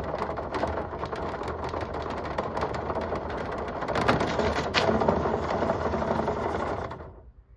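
Drill spinning a dryer vent cleaning brush on connected rods through the vent duct: a steady motor whir with constant clicking and knocking of the rod and brush in the duct, stopping abruptly about seven seconds in.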